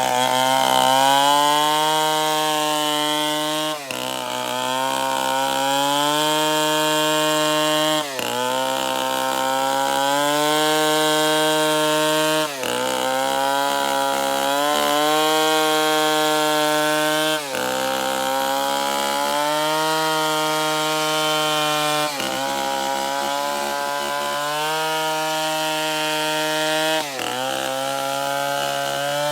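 Stihl 070 two-stroke chainsaw running at high revs, cutting binuang timber. Its pitch dips briefly every four to five seconds and climbs back.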